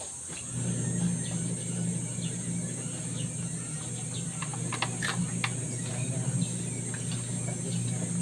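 A small electric machine motor starts about half a second in and runs with a steady low hum, with a few light clicks near the middle. A steady high insect-like chirr sounds throughout.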